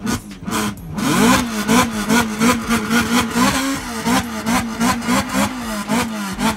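Car engine revved hard and held against the rev limiter: from about a second in, the pitch bounces up and dips about three times a second, with a sharp pop at each cut.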